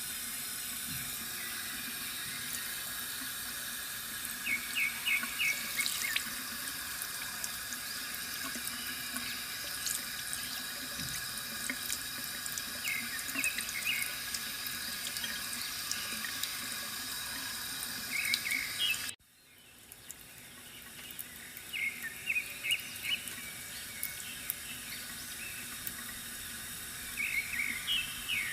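Water trickling steadily from a bamboo fountain spout, with birds chirping in short clusters of quick notes now and then. About two-thirds of the way through, the sound cuts out abruptly and fades back in over a few seconds.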